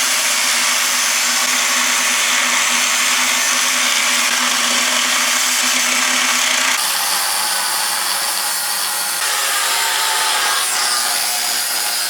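Angle grinder cutting through the metal casing of a car exhaust silencer: a loud, steady grinding that shifts in tone about seven seconds in.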